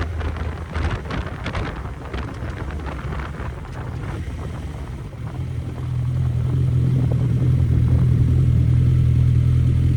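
Suzuki GSX650F motorcycle's inline-four engine running under rushing wind noise. About halfway through, a steady engine note grows louder and holds.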